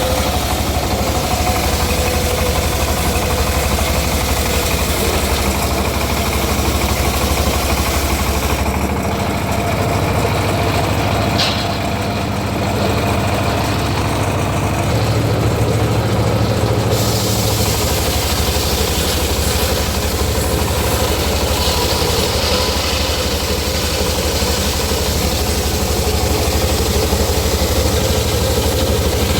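Engine-driven homemade circular-saw mill running steadily with a low, even hum. The high hiss over it fades for several seconds in the middle, then returns.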